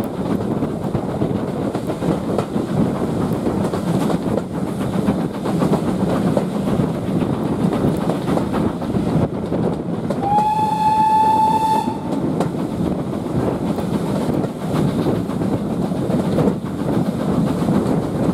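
Steam train running along the track with steady rumble and faint rail clatter. About ten seconds in, the locomotive's steam whistle sounds once, a single steady note held for about a second and a half.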